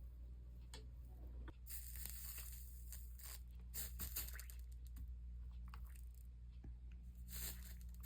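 Flux sizzling and crackling as it boils out under a hot soldering iron on a copper-foiled stained-glass seam, in several short hissing spells, over a steady low hum.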